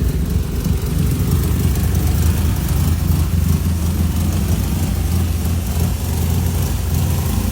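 Car engine idling steadily, its sound sitting low and even with no revving.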